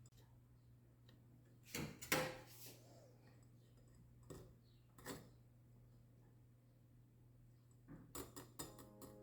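Kitchen utensils and dishes knocking: a few sharp clinks and knocks, then a quick run of clicks near the end, over a low steady hum.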